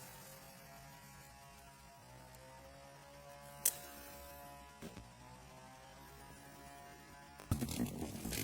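A faint steady hum with a few pitched tones that drift slightly, a sharp click a little past a third of the way through, and a louder rough, uneven noise starting near the end.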